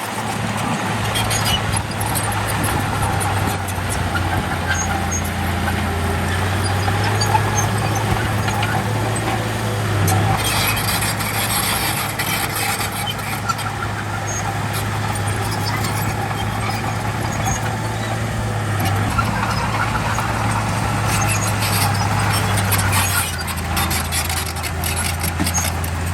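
Komatsu D31P bulldozer's diesel engine running steadily with a constant low drone while it works, with faint scattered ticks and rattles over it.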